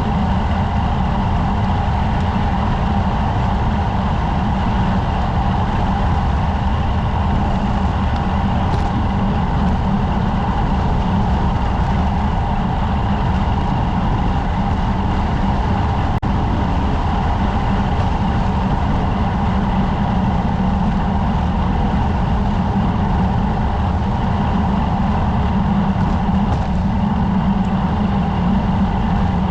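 Steady wind rush on a bike-mounted camera's microphone while riding a road bike, heavy in the low end and unchanging throughout.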